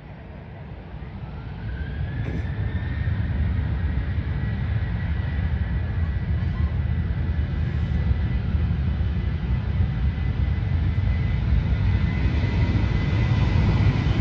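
Jet airliner engines growing louder over the first few seconds, then a steady, loud rumble. Over it a high engine whine rises in pitch and then holds.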